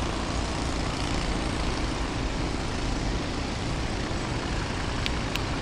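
Waterfall: a steady, even rush of water falling over rock, with a couple of sharp clicks near the end.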